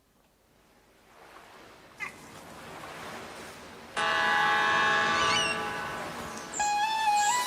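Seaside sound effects at the start of the song's backing track: surf swelling, gull cries, and a ship's horn blowing steadily for a couple of seconds from about halfway in. The instrumental intro of the song comes in near the end.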